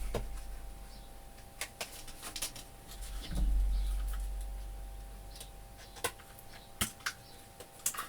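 Scattered light clicks and taps of small craft tools and paper pieces being handled on a tabletop, with a dull thud a little over three seconds in.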